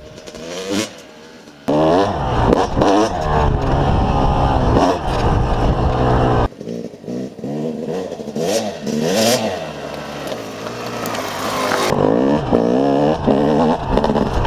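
Yamaha YZ250 motocross bike's single-cylinder two-stroke engine revving up and down repeatedly under riding, quieter for the first second or two, with the sound changing abruptly a few times.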